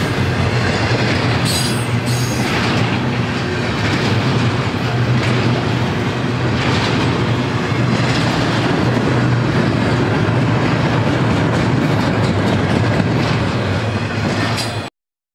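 BNSF double-stack intermodal freight train's cars rolling past: a steady rumble with wheel clatter on the rails. The sound cuts off abruptly near the end.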